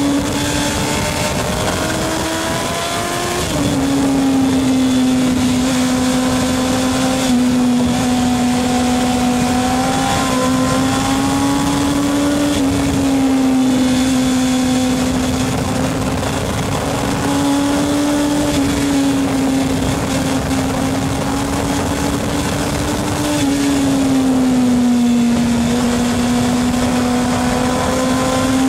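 Motorcycle engine running steadily at high revs, its pitch easing up and down a little as the throttle changes, with a second steady unchanging hum underneath.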